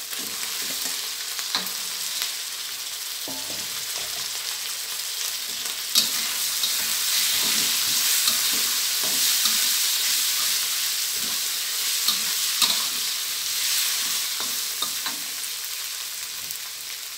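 Catfish pieces sizzling in hot oil and red curry paste in a wok, stirred with a spatula that clicks and scrapes against the pan. The sizzle grows louder a few seconds in, with a sharp clack of the spatula about six seconds in.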